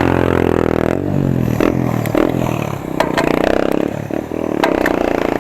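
Motor vehicle engines passing close on the road: one engine's pitch drops as it goes by in the first second, and another engine's steady hum builds from about three seconds in.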